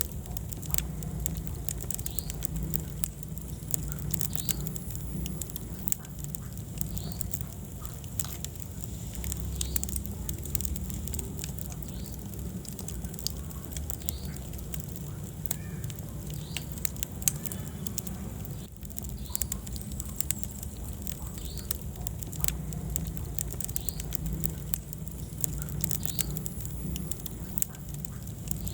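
Wood fire burning in a fireplace: irregular crackles and pops over a steady low rumble, with brief faint whistles now and then.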